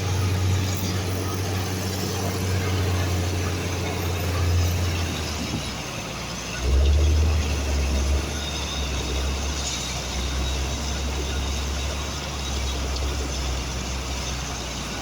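Backhoe loader's diesel engine running under load while digging and loading, its low drone shifting in pitch about six seconds in, with a louder surge just after.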